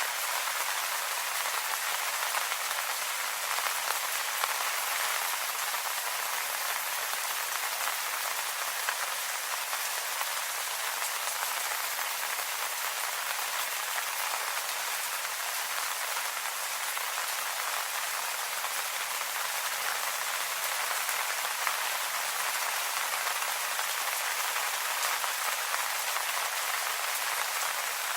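Steady rain falling on leaves, an even hiss of many small drop patters.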